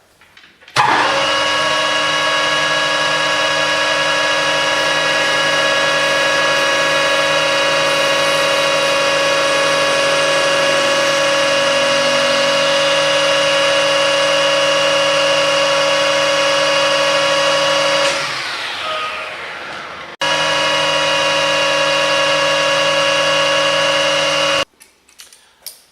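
Metal lathe running with a steady high whine while the end of the bar is faced off. About eighteen seconds in it spins down with a falling whine, then runs steadily again before cutting off sharply.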